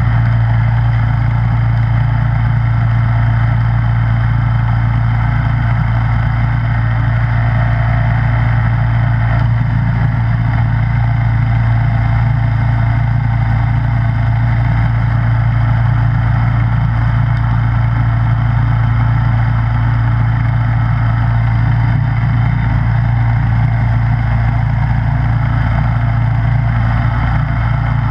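Snowblower engine running steadily at a constant speed, a loud, even hum with no change in pitch or level.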